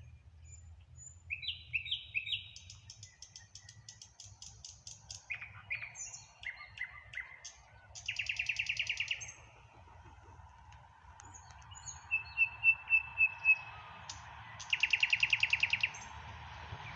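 Nightingale singing in separate phrases of whistles, clicks and fast rapid-fire trills, with pauses between phrases. A faint steady background noise builds up in the second half.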